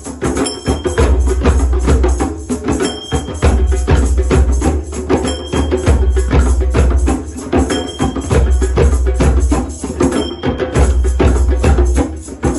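A drum circle playing together: many hand drums beating a fast, steady groove with deep bass strokes, with jingling and clacking hand percussion on top, in a pattern that repeats about every two and a half seconds.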